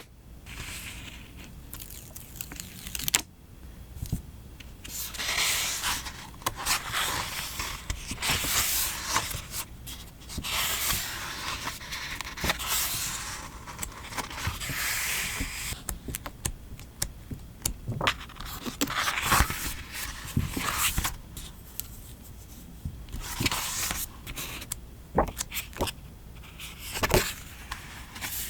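Close-up paper and sticker handling: repeated rustling and peeling swells, each a second or two long, with scattered sharp clicks and taps between them.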